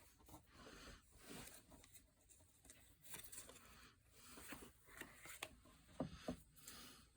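Near silence with faint rustling and a few soft taps, typical of paper being handled on a craft table.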